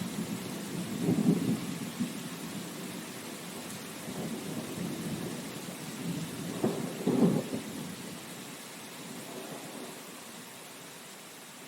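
Steady rain with rumbles of thunder, the two strongest about a second in and around seven seconds in. The storm fades away near the end.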